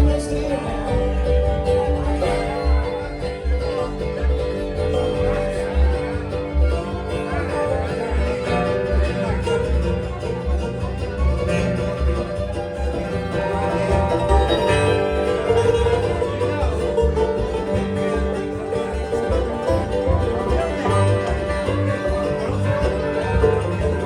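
Live bluegrass band playing an instrumental break: banjo, guitar, mandolin and fiddle over a steady upright bass pulse.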